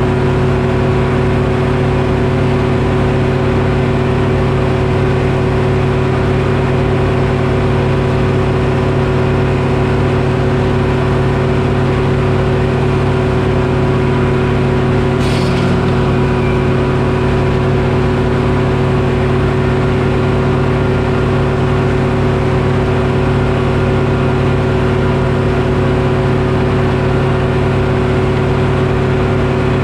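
Detroit Diesel engine powering a Frick sawmill, running steadily at an even speed. A brief sharp sound cuts in about halfway through.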